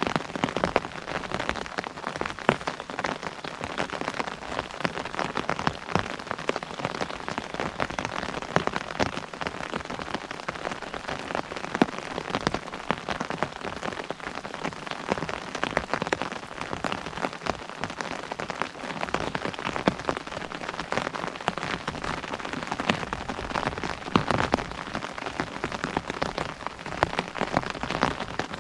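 Steady rain pattering on an umbrella overhead: a dense, irregular stream of drop ticks over a constant hiss of falling rain.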